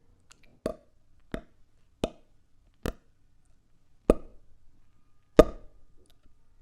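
A series of six single, hollow plops at uneven intervals of about one a second, the one near the end the loudest.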